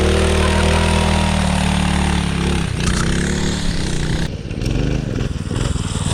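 Doodlebug mini bike's small Predator engine running at full throttle at a steady high pitch, then the revs fall away about three seconds in and it drops back to a lower, rougher running.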